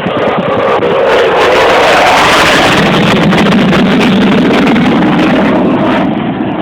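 F-15E Strike Eagle's twin afterburning turbofan engines making a loud low pass. The noise swells to a peak about two seconds in, with a pitch that drops as the jet goes by, then eases near the end.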